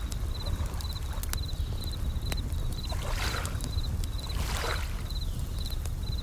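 Bell crickets (suzumushi) chirping in short high trills about twice a second. Two waves wash in, about halfway through and near the end, over a low rumble. A campfire crackles with scattered sharp pops.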